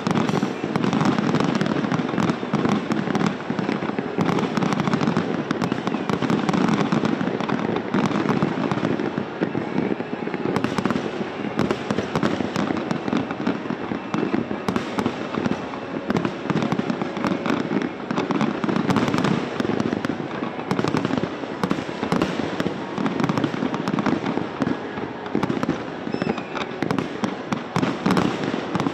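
Large aerial fireworks display firing a dense, continuous barrage: many overlapping bangs and crackles with no let-up.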